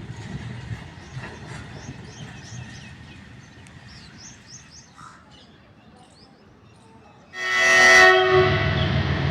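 Indian Railways train horn sounding one blast of about a second, about seven seconds in, then the low rumble of the train running close by. Before the horn, small birds chirp faintly over quiet background noise.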